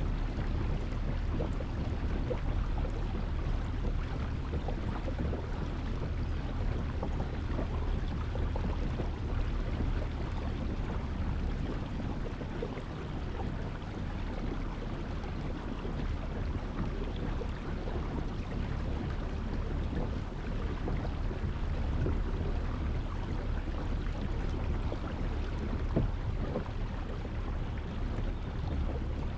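Steady rushing noise of wind and water while out on the water in a kayak, with the wind buffeting the microphone. A single light knock comes near the end.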